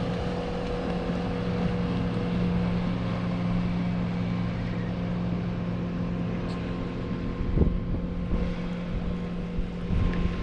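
An engine running steadily at idle, with a low even hum, and wind on the microphone. There are a couple of brief knocks near the end.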